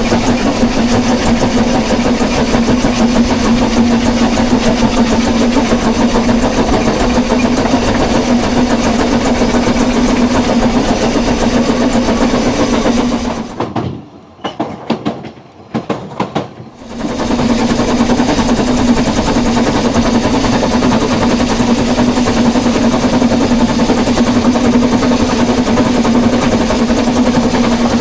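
A loud, steady engine noise with a constant low hum, which cuts out for about three seconds around halfway through, broken by a few clicks, and then resumes.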